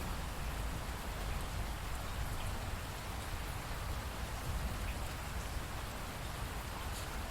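Steady rainfall: an even hiss with scattered drop ticks.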